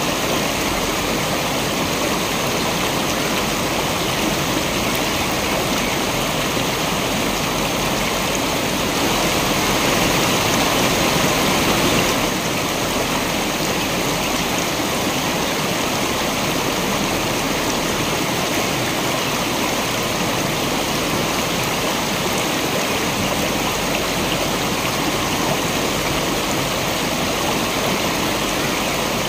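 Waterfall: a steady, dense rush of falling water. It swells a little louder for a few seconds and then drops back abruptly about twelve seconds in.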